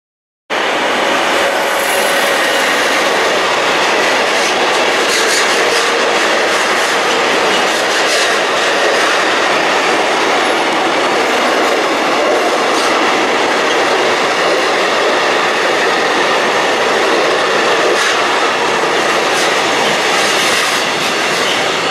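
Freight train of tank wagons passing at speed: steady rolling noise of steel wheels on the rails, with a few sharp clicks here and there. It starts abruptly about half a second in.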